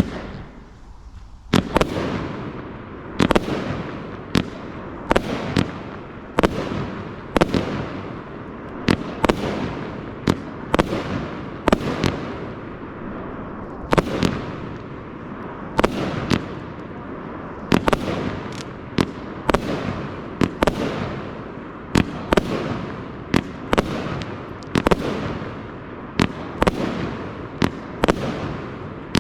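Pyroworx Pearlescent 25-shot firework cake with 30mm tubes firing its shots in steady succession. From about a second and a half in there is a sharp bang roughly every second, with a rumbling wash of echo between the shots.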